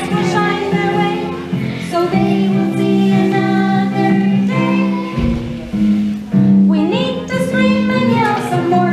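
Children singing over an instrumental accompaniment.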